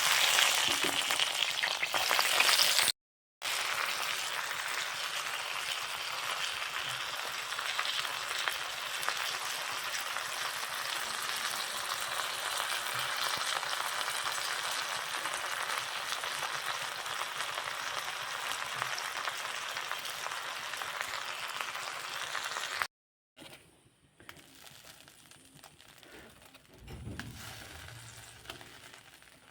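Food sizzling as it fries in a hot pan: a steady hiss, broken off abruptly twice, and much quieter after the second break.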